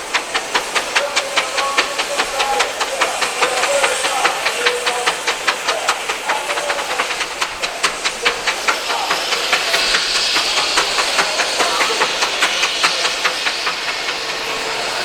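Steam engine exhausting in quick regular chuffs, about three to four a second. About two-thirds of the way through, a steady hiss of escaping steam takes over and the chuffs grow fainter.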